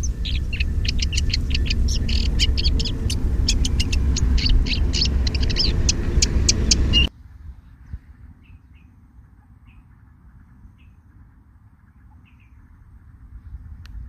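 Wild birds calling: many quick high chirps in a dense run over a loud low rumble, all cutting off abruptly about halfway through. After the cut only a few faint, scattered chirps remain.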